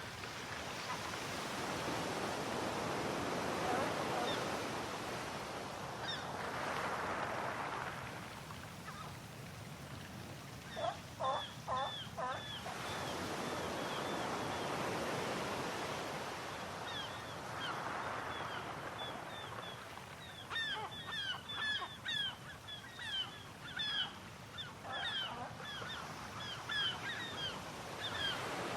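Sea waves washing in and drawing back in slow surges. From about a third of the way in, birds call over them in many short, repeated cries that grow denser near the end.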